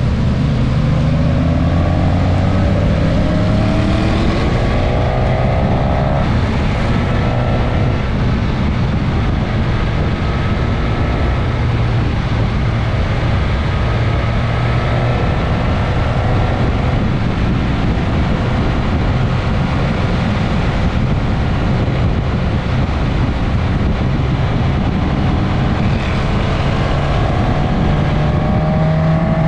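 Suzuki GSX-S 1000S Katana's inline-four engine pulling through the gears at road speed, its pitch rising a couple of times early on and again near the end, over heavy wind rush.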